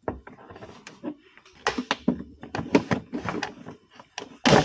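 A quick, irregular series of sharp clicks and knocks, like small hard parts being handled and tapped together, in a small room.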